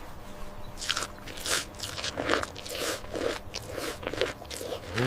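A zebu chewing feed, a run of short crisp crunches about two to three a second.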